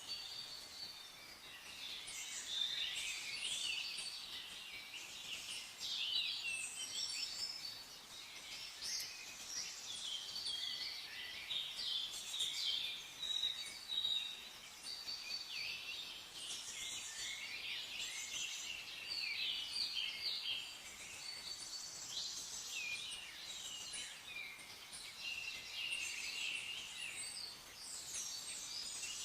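Many small songbirds chirping and trilling together, a dense overlapping chorus of short high calls over a faint steady hiss.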